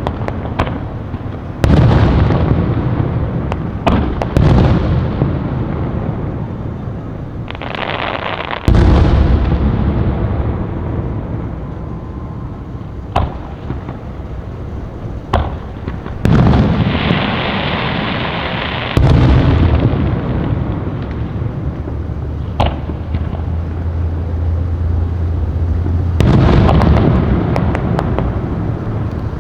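Fireworks display: a string of loud aerial shell bursts, about six big booms spread across the stretch, each trailing off in a long rolling rumble. Sharp single cracks fall between them, and a hissing stretch comes about two-thirds of the way through.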